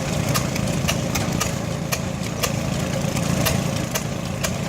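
An engine idling steadily, with sharp clicks about two to three times a second over the hum.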